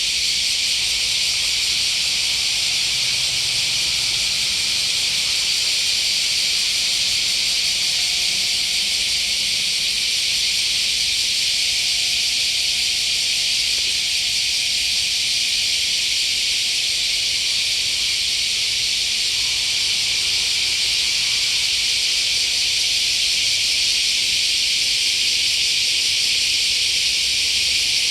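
Dense chorus of summer insects, heard as a loud, steady high-pitched hiss that does not change.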